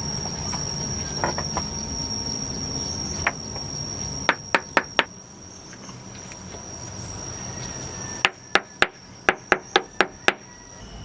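Sharp knocks, like a tool striking, in two runs: four quick ones about four seconds in and about eight more near the end. A steady high-pitched tone runs beneath.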